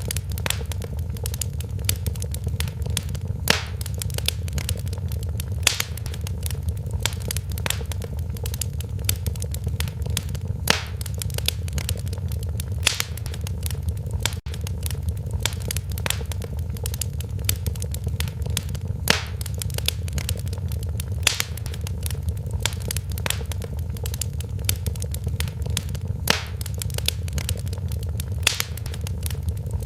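Wood fire crackling in a fireplace: a steady low rumble of the flames under dense small crackles, with sharper pops every few seconds.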